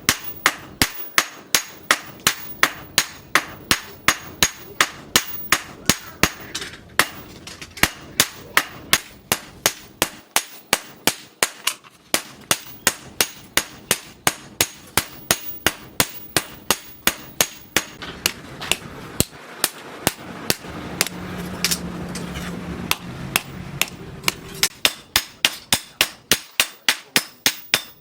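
Steady hammer blows on metal, about two to three a second, typical of forging a steel knife blade on an anvil. The blows thin out for a few seconds past the middle, where a steady low hum comes in.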